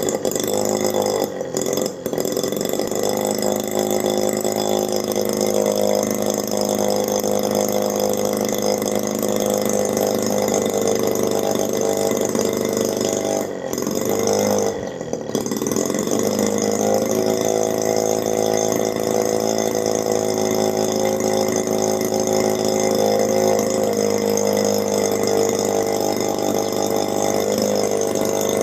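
Homemade miniature two-stroke engine, built from a refrigerator compressor, running steadily. It falters briefly twice near the start, and its pitch sags and picks back up about halfway through.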